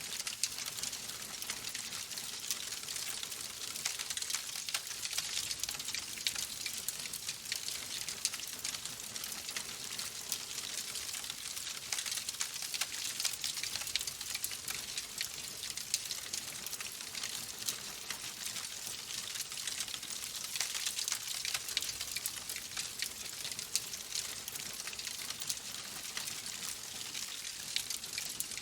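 Logs burning in a fireplace, crackling steadily: a dense run of small pops and snaps over a soft hiss.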